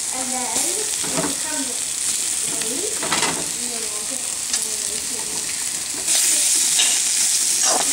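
Bitter melon and onion sizzling in hot oil in a frying pan while raw potato slices are added and stirred in with a spatula. The sizzle gets louder about six seconds in.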